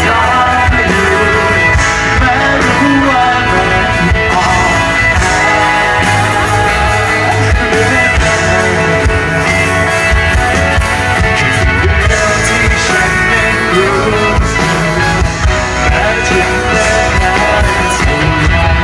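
Rock band playing live at full volume, guitars and drums.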